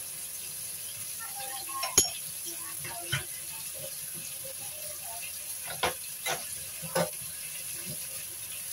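Chicken pieces frying in hot oil in a wok, a steady sizzling hiss. A sharp click about two seconds in and a few softer clicks and pops later on.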